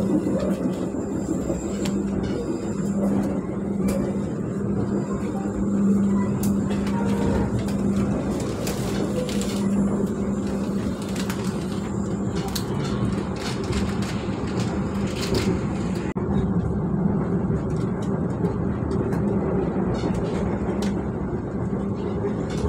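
Steady running noise of a passenger train heard from inside the coach, a constant low hum under a rumble, with scattered short clicks and rattles through the middle.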